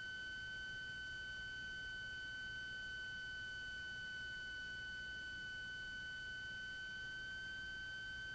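A steady high-pitched tone with fainter higher overtones, holding one pitch without change. No engine noise is heard.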